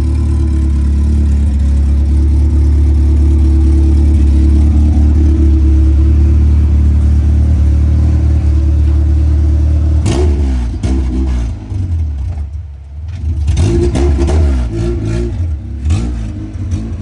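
Honda CRX Si drag car engine idling steadily, then revved repeatedly from about ten seconds in, its pitch rising and falling with a brief drop-off in between.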